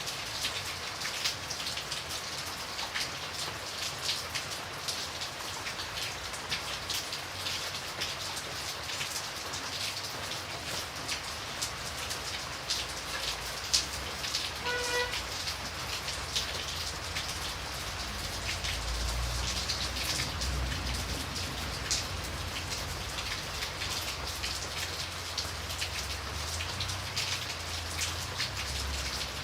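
Steady rain falling, with many separate drops hitting a surface. A short pitched note sounds about halfway through, and a low rumble comes in during the second half.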